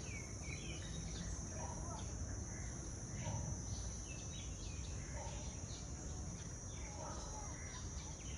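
Outdoor ambience of a tropical bird park: a steady high insect drone, with scattered bird chirps and a short call repeated about every one to two seconds.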